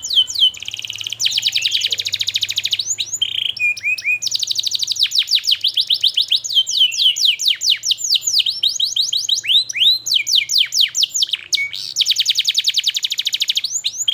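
Domestic canary singing a long, unbroken song: stretches of very fast trills of repeated notes alternate with series of sharp, downward-sweeping whistled notes (the 'cuit cuit' calls), all high-pitched.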